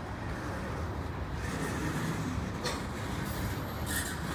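Freight train cars rolling past on the track: a steady rumble of steel wheels on rail, with two short sharp high clicks, one about two-thirds of the way through and one near the end.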